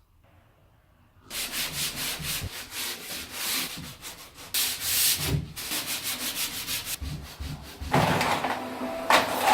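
Repeated rubbing strokes, about three or four a second, starting a little over a second in after near silence.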